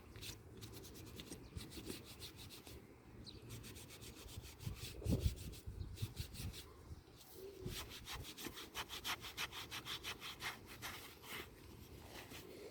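A sponge scrubbing a removed, felt-lined rubber window seal from a car door in quick back-and-forth strokes, several a second. The seal is being cleaned of the dirt blamed for side windows squeaking as they go up and down. There is one dull knock about halfway through.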